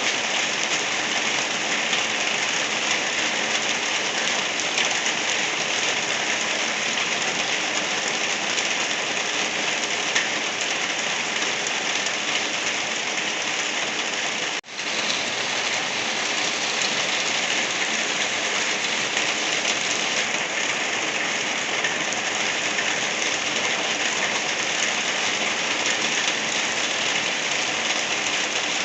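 Steady rain falling, an even patter of drops that cuts out for an instant about halfway through.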